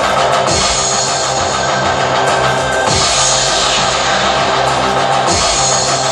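A rock band playing live, loud and steady: distorted guitars over a full drum kit in an instrumental passage before the vocals come in.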